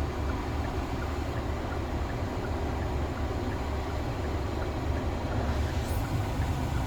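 2021 Hyundai Sonata's HVAC blower on a high fan speed: steady rushing air with a constant whistle, over the low rumble of the running car. The whistle is a fault the owner says has been getting worse and now comes from every vent, not just the floor.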